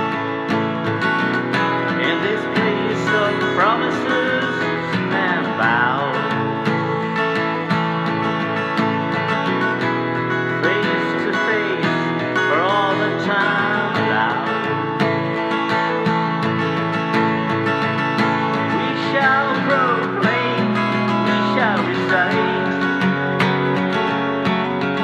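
Instrumental passage of a song: strummed acoustic guitar with a lead melody line that bends and slides in pitch, in phrases a few seconds long.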